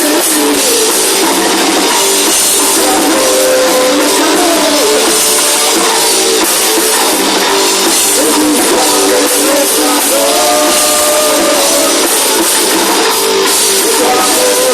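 Rock band playing a song live, loud and steady, with drum kit and pitched guitar or vocal lines; the sound has almost no bass.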